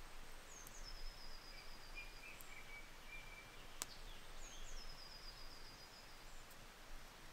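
A songbird singing twice, about four seconds apart: each phrase a short high note dropping into a quick even trill. A fainter, lower bird note is held between them, and there is a single sharp click in the middle.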